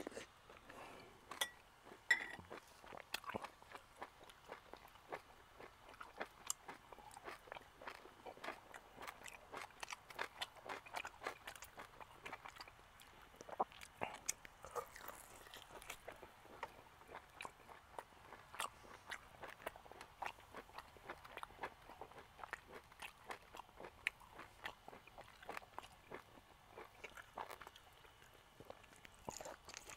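Close-up eating sounds: a person chewing and biting into charred grilled food, with many small, irregular crunches and mouth clicks.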